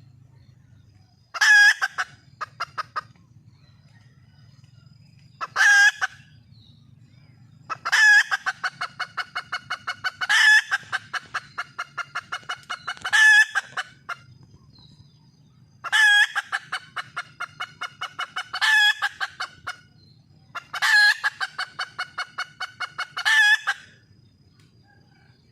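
Red junglefowl hen calling over and over. Each loud call is followed by a quick, fading run of short clucks, about nine times in all, with a faint low hum between them.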